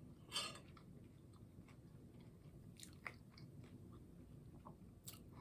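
Quiet close-up eating sounds: a crunchy bite about half a second in, then soft chewing and small mouth clicks.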